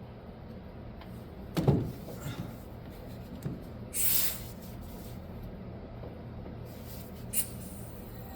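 Shop air repressurizing the high-pressure oil system of a 6.0 Powerstroke diesel for a leak test: a steady low hum throughout, a sharp knock about one and a half seconds in, a short hiss of air around four seconds in, and a light click near the end.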